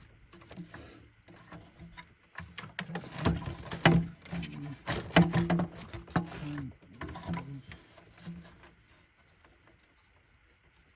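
Hand tools and plastic engine-bay parts clicking and knocking as hands work at an engine's intake. A busy run of sharp clicks and knocks in the middle dies away near the end.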